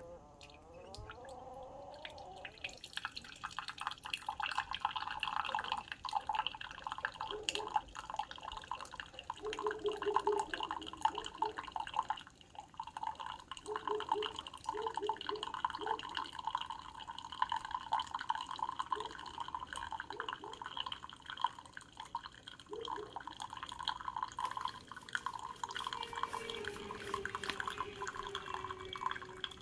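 Keurig K-Supreme Plus C single-serve coffee maker brewing: after a couple of seconds of pump buzzing, hot coffee streams and drips steadily into the cup.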